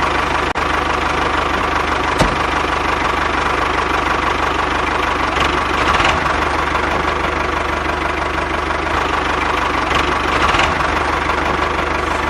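Small diesel engine running steadily at idle with a fast knocking beat.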